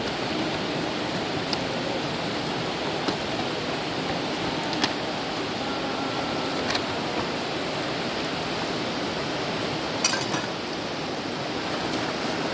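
Steady rush of flowing river water, with a few sharp clicks or knocks scattered through it, the clearest about ten seconds in.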